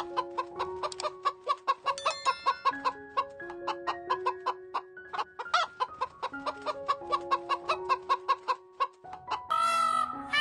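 A chicken clucking in quick, short calls over a light background melody. Near the end a louder run of repeated rising-and-falling calls comes in.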